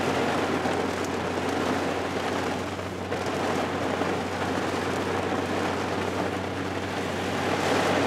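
Hard rain falling steadily, a dense, even hiss, over a steady low hum.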